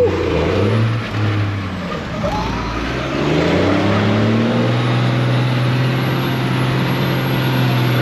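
Car engine revving: its pitch rises about three seconds in and is then held steady at high revs while the driver holds the vehicle sliding in a doughnut on wet pavement.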